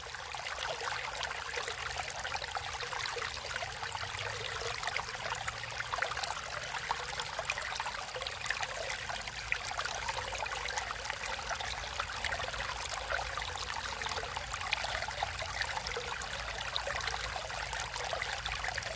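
Natural stream flowing steadily, with fine splashing and trickling.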